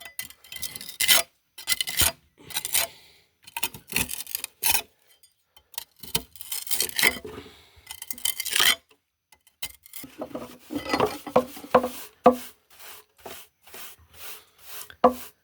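A hand tool scraping loose stones and rubble off a surface to clear it for cementing, in irregular gritty strokes. About two-thirds of the way through, the strokes become short and quick, about three a second.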